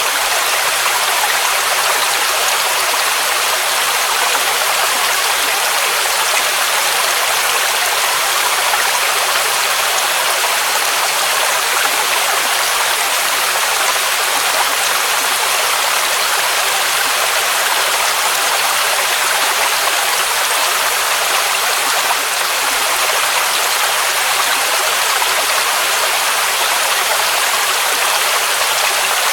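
Waterfall rushing steadily: a dense, unbroken hiss of falling water with little deep rumble.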